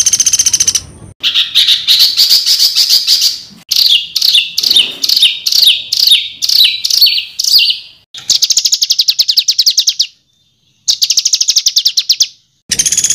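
Caged-songbird 'tembakan' calls: short phrases of fast, harsh trills and a run of about a dozen quick down-slurred notes. Each phrase starts and stops abruptly, with silent gaps between, as in edited recordings pieced together.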